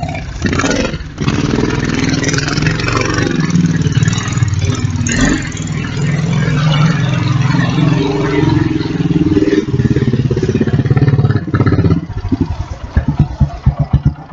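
Kawasaki Bayou 300 ATV's single-cylinder four-stroke engine running loud and revving up and down. About two seconds before the end its revs fall and it slows to a chug of separate firing pulses.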